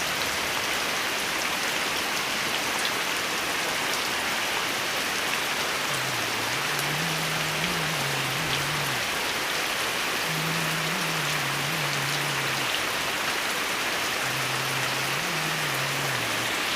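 Steady heavy rain falling and pattering on surfaces. In the second half a faint low hum comes and goes three times, stepping up and down in pitch.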